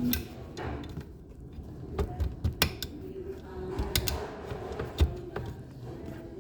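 A series of sharp, separate clicks and knocks, like small parts or tools being handled, over faint voices.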